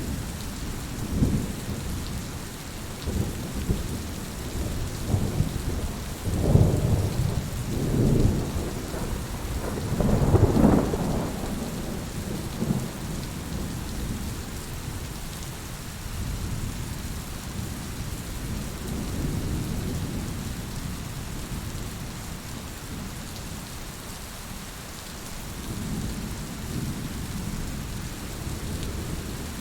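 Heavy rain falling steadily, with rolling thunder rumbling through it in several swells, the loudest about a third of the way in, then fainter rumbles later.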